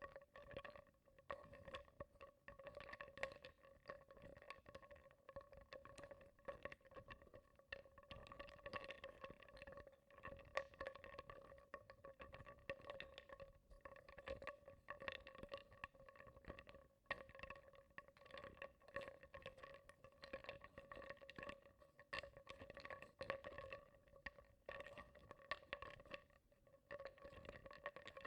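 Wooden blocks being stirred in water in a bowl: soft, irregular knocks and clicks of wood against wood and the bowl, with a faint steady tone underneath.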